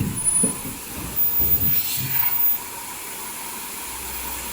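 Foldable N95 mask production line running with a steady machine hiss, and irregular low knocking sounds for the first two and a half seconds before it settles to the plain hiss.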